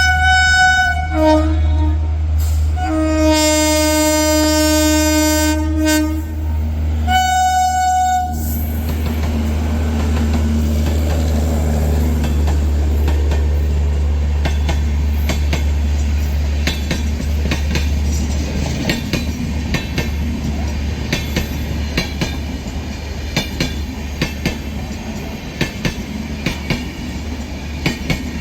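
Rajdhani Express train sounding its horn three times: a short blast, a longer one lasting about three seconds, then another short blast. It then passes with a steady rumble and the clickety-clack of wheels over rail joints.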